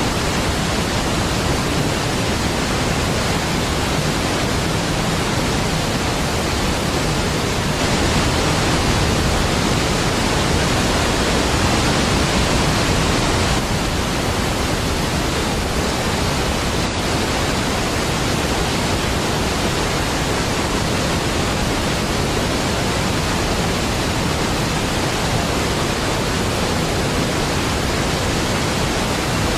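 Large waterfall rushing with a deep, steady roar of falling water, growing slightly louder for a few seconds about a third of the way in.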